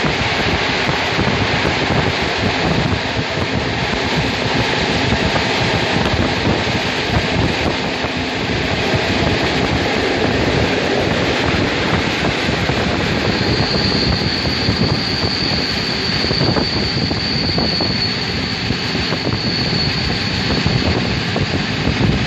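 Passenger train running on the rails, heard from an open carriage window: a steady rush of air and wheel noise. About two-thirds of the way through, a thin high squeal joins in and holds for several seconds as the train runs into the station.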